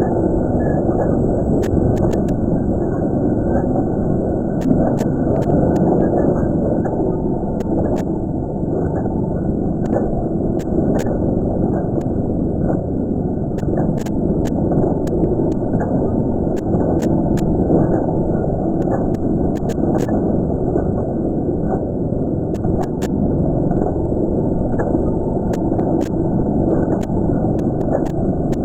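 Cave ambience: a steady low rushing rumble, with sharp clicks scattered irregularly throughout.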